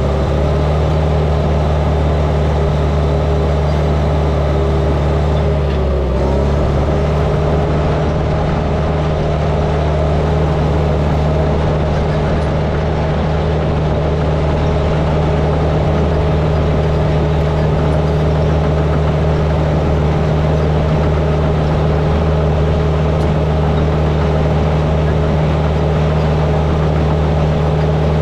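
Heavy earthmoving machine's engine running steadily at working speed, its pitch dipping briefly about six seconds in as it takes load.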